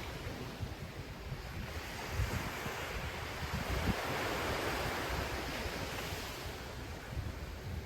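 Ocean surf breaking and washing ashore, swelling to its loudest around the middle, with gusty wind rumbling on the microphone.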